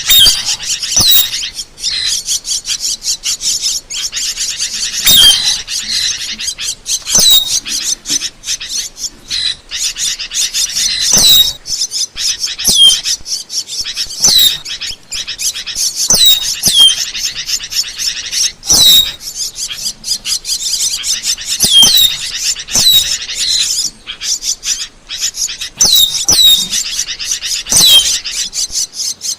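Asian glossy starling calls: a dense, continuous chatter of high chirps and clicks with short down-slurred whistles repeated every second or two.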